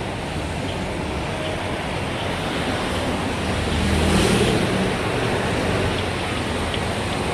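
Street traffic noise, steady, swelling louder briefly about four seconds in.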